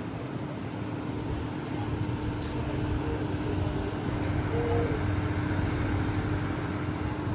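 A vehicle engine running with a low rumble and a steady hum, growing louder over the first few seconds.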